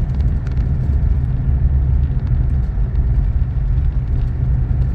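Steady low rumble of a car driving slowly on a snowy road, heard from inside the cabin: engine and tyre noise.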